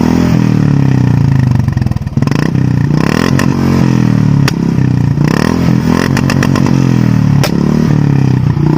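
Royal Enfield Classic 350 single-cylinder engine revved hard over and over, its exhaust note rising and falling with each blip, and sharp exhaust bangs cracking out between revs: single cracks, then a quick string of them about six seconds in. This is the Bullet 'shots' trick, deliberately making the exhaust backfire.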